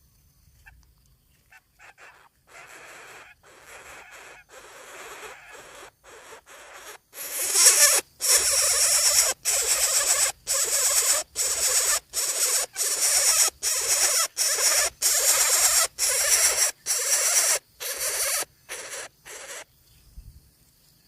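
Coucal nestlings giving raspy, hissing begging calls in a steady rhythm of about two a second. The calls grow loud about seven seconds in and stop shortly before the end.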